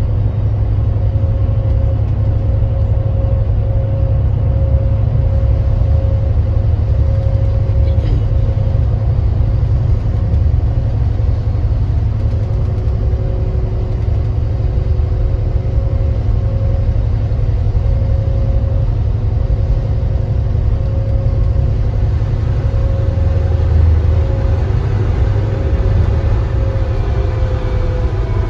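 A 2025 Granbird Sunshine coach under way: a steady deep engine and road rumble with a thin steady whine over it. Near the end the whine starts to drop in pitch as the coach slows.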